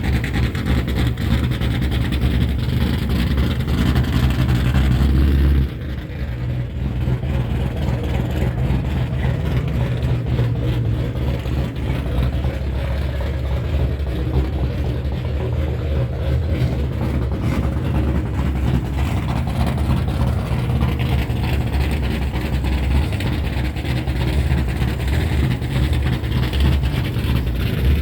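A car engine idling with a steady low rumble, a little quieter after about six seconds.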